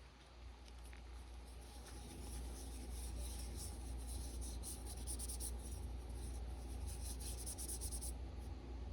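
A reformed bar of gym chalk being crushed, giving a dense, crunchy crackle of crumbling chalk. The crackle builds over the first few seconds and stops abruptly about eight seconds in.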